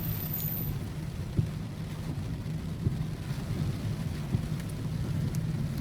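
Steady drone of a vehicle's engine and tyres, heard from inside the cabin while driving in the rain, with scattered light ticks over it.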